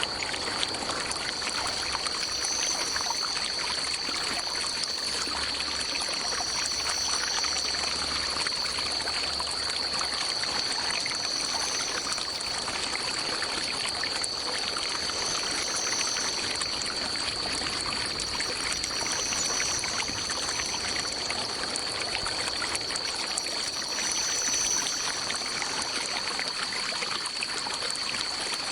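Water running and trickling steadily, as in a small forest stream. Over it sits a constant high-pitched tone, with a still higher tone that swells and fades every few seconds.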